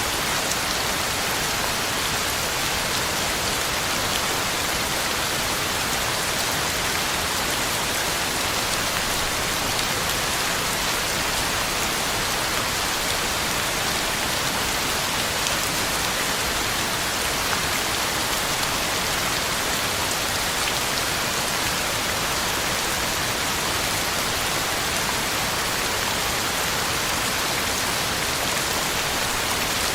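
Heavy rain falling steadily, pattering on the ground and leaves in an even, unbroken hiss.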